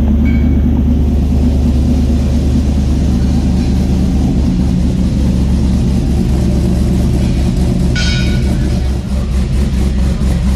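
LS-swapped V8 in a 1993 Chevy pickup idling steadily through a new exhaust with 3-inch piping, an X-pipe and performance mufflers. The idle sits high because the engine is not yet tuned for its cam.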